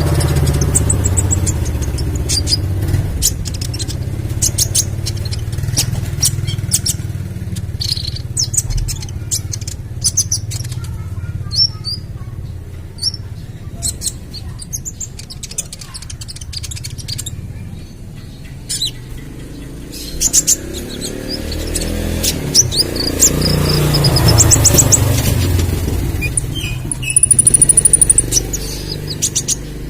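Juvenile kolibri ninja (a sunbird) singing busily: rapid, high, sharp chirps and short trills in quick succession, with a fast high trill near the end. A steady low rumble runs underneath and swells about two-thirds of the way through.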